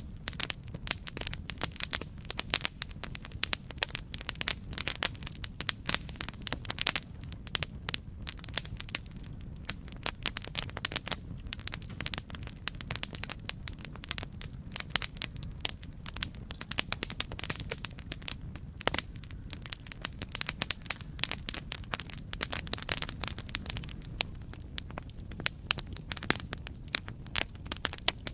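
Wood fire crackling, with dense irregular pops and snaps over a steady low rumble of flame.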